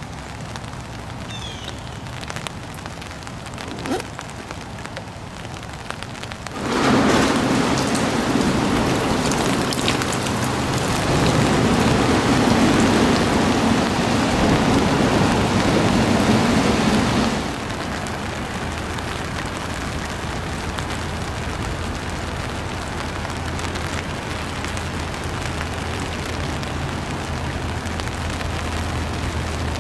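Rain falling on the river's surface, a steady hiss. About a fifth of the way in, a much louder rushing noise starts suddenly and stops just as suddenly a little past halfway.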